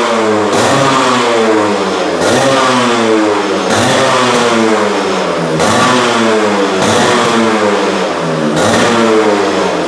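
A restored Yamaha RX-series two-stroke single-cylinder motorcycle engine being revved by hand, over and over. The pitch climbs and drops back about every one and a half seconds, with a sharp crackle at the top of each rev.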